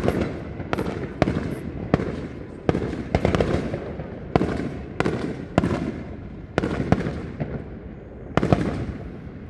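Fireworks finale: a rapid string of aerial shell bangs, about one or two a second, each followed by rumbling echo, over steady crackling.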